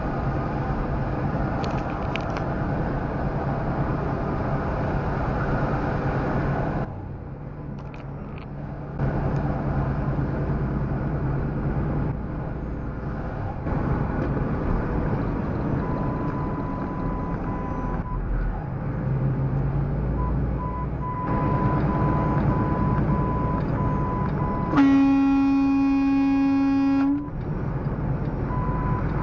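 Truck engine and road noise with a steady low hum, changing abruptly several times. A high electronic beep sounds on and off in the second half. Near the end a vehicle horn blasts once for about two and a half seconds, the loudest sound.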